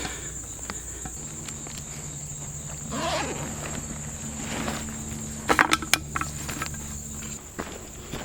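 Steady high-pitched drone of insects in the summer woods, with a few footsteps on the trail about five and a half seconds in. A faint low hum sits underneath for most of the time.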